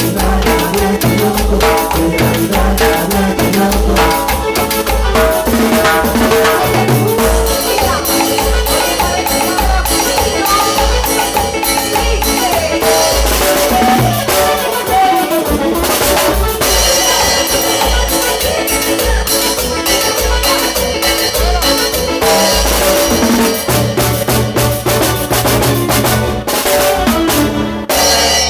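Cumbia band playing a passage without singing: steady bass and drum beat with percussion and a melody line over it. The music stops just before the end.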